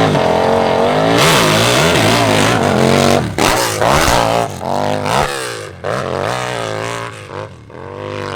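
Open-class hill-climb motorcycle engine at hard throttle for about three seconds, then revved in several sharp surges with short drops between them as the throttle is worked. The engine note falls and quietens over the last few seconds.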